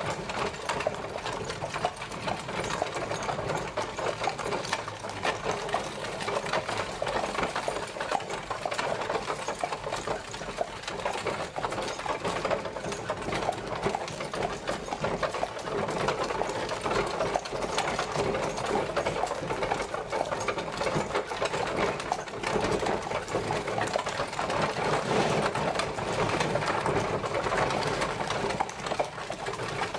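Horse-drawn carriage travelling: a continuous dense rattle and clatter of its wheels and body, steady throughout.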